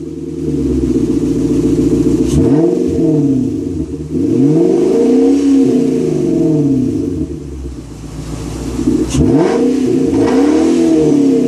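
Infiniti FX45's 4.5-litre V8 exhaust through a Flowmaster 80 Series muffler, idling and then revved up and let back down three times, the middle rev the longest and highest. The note is deep, with no rasp.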